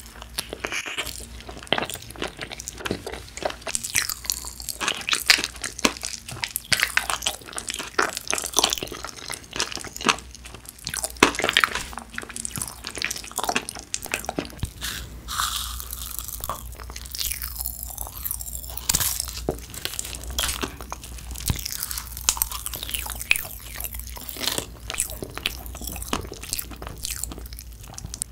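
Close-miked chewing of a Trolli galaxy jelly, a ball-shaped gummy candy, bitten into and chewed with many small, irregular crisp clicks and smacks.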